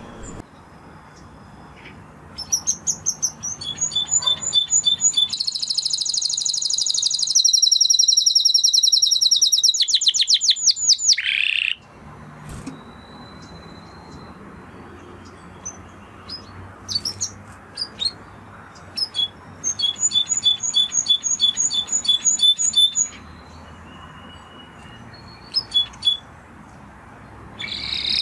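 Spanish Timbrado canary singing: fast trills of rapidly repeated notes in a long phrase that breaks off abruptly about twelve seconds in. A few scattered chips and a second shorter trill phrase follow, and the song starts again near the end.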